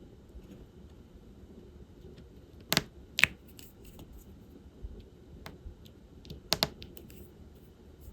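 Light taps and small clicks of diamond painting work, with two louder pairs of sharp plastic clicks about three and six and a half seconds in.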